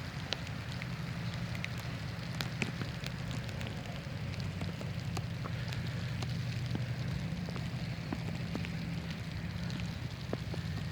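Drops pattering with scattered, irregular ticks over a steady low hum.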